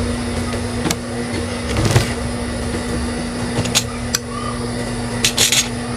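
High-speed industrial sewing machine running with a steady motor hum, with several sharp clicks and knocks as the work is handled.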